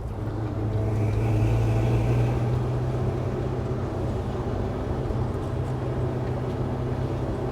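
A 1966 Chevy C10's 383 stroker small-block V8 running under way, the truck being driven; the engine note swells for a couple of seconds about a second in, then holds steady.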